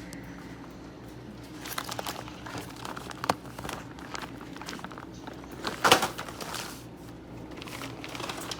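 Packaged fireworks being handled: crinkling wrappers and scattered knocks of boxes, with a sharp knock about three seconds in and a louder clunk near six seconds, over a steady low hum.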